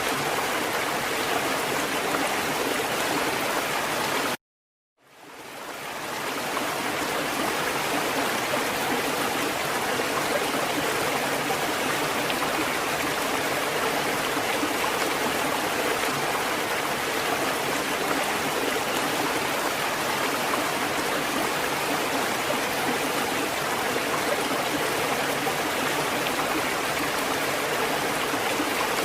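Water fountain running, a steady even rush of splashing water. About four seconds in it cuts out abruptly for half a second, then fades back up over about a second.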